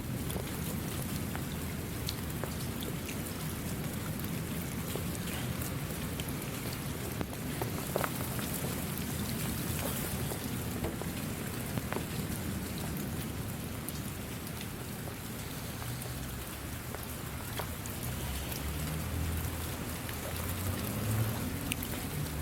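Steady rain falling, with scattered sharp drop impacts standing out from the even hiss. A low rumble swells up in the last few seconds.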